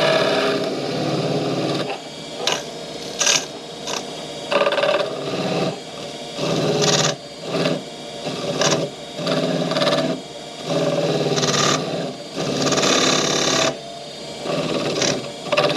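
Wood lathe running steadily, with a turning tool cutting into the spinning wooden ornament in about a dozen irregular bursts of scraping. This is the ornament being parted off the lathe.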